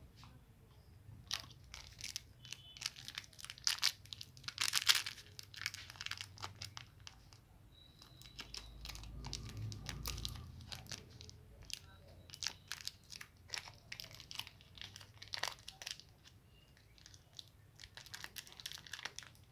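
Plastic sweet wrapper crinkling and being torn open: a string of sharp crackles, loudest about four to five seconds in.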